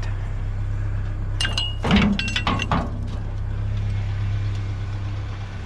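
Pieces of scrap metal clanking and clinking together as they are handled, a quick run of knocks with ringing tones lasting about a second and a half, loudest about two seconds in. A steady low hum runs underneath throughout.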